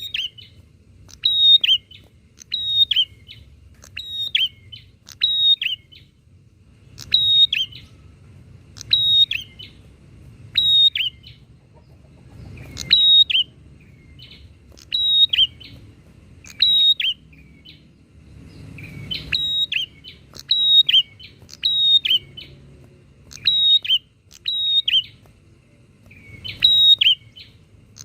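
Prinias (prenjak) calling back and forth, a loud series of short, sharp chirping calls, one roughly every second or so.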